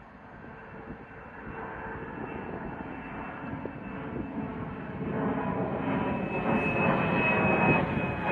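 Jet airliner's engines at takeoff thrust, growing steadily louder as it comes closer, with a high whine coming in over the rush in the second half.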